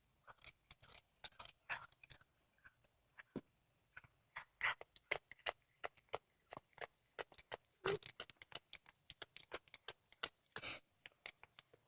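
A cat chewing on a squirrel carcass: irregular wet clicks and crunches, several a second, with a few louder bites around the middle and near the end.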